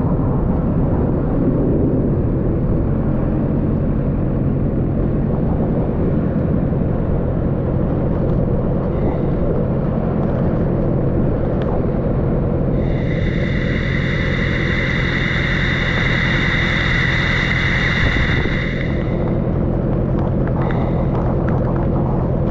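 Motorcycle running on the road in heavy rain, a steady low rumble with rushing wind and water noise on the microphone. About halfway through, a steady high-pitched tone with several overtones sounds over it for some six seconds, then stops.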